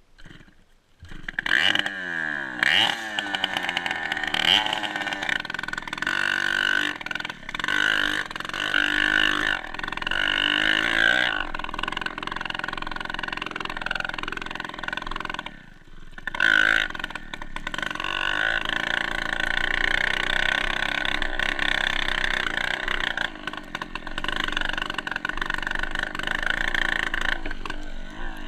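Dirt bike engine running and revving, its pitch rising and falling as the throttle is worked, starting about a second in and dropping off briefly about halfway through.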